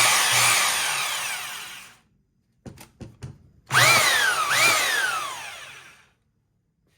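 Bosch Bulldog Extreme corded rotary hammer running in drill-only mode with no load. The motor winds down from a run, a few light clicks follow, then two quick trigger pulls each bring a whine that rises sharply and falls away as the motor coasts down. The tool runs normally on its original carbon brushes, which were checked and found still good.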